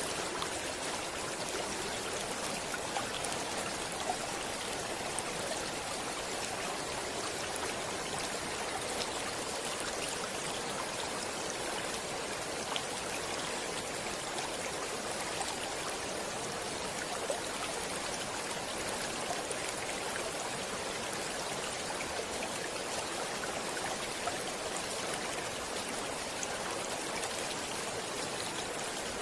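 Flowing stream water, a steady rushing with small splashes and droplets throughout.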